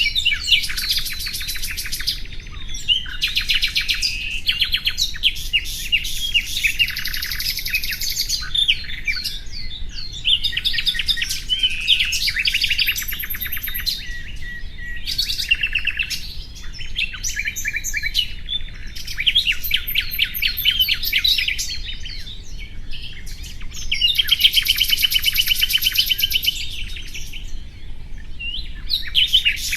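Common nightingale singing: a run of phrases built from fast repeated notes and rattling trills, each lasting a few seconds with brief pauses between, one of the loudest and longest trills coming about three-quarters of the way through.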